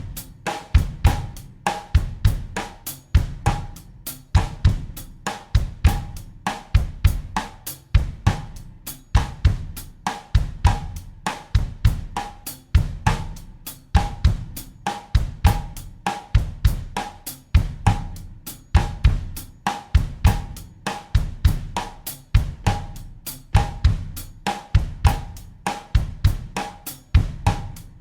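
Acoustic drum kit playing a looped bossa nova groove at 100 BPM in 4/4: bass drum, snare, hi-hat and cymbal in a steady pattern that repeats about every two and a half seconds.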